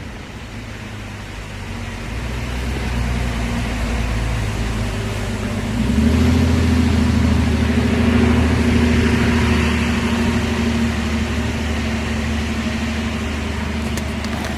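Mahindra Max 22 HST tractor's four-cylinder Mitsubishi diesel engine running at a steady idle, growing louder over the first few seconds and stepping up in level about six seconds in.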